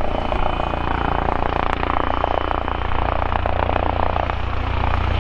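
Helicopter flying in, its rotor and engine running with a steady fast chop, getting slightly louder near the end.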